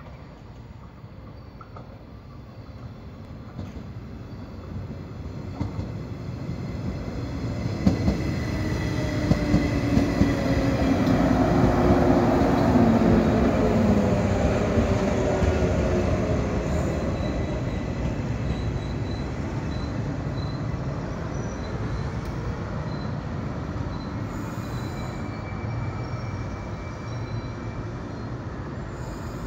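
115-series electric train pulling into a station and braking. Wheels rumble on the rails, growing louder as it comes alongside, with sharp clicks over the rail joints about eight seconds in. A whine falls in pitch as the train slows, and the rumble then eases off gradually while the train keeps rolling.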